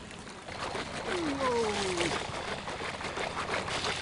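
River water splashing and lapping, with a single call that falls in pitch about a second in.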